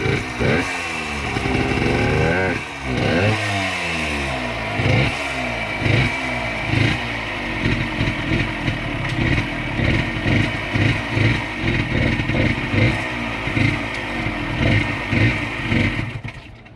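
1978 Yamaha DT100's air-cooled two-stroke single-cylinder engine revving up and down as the bike is ridden, running on a 32:1 premix. It does long rising and falling sweeps at first, then quick choppy throttle surges about twice a second. The sound falls away sharply near the end.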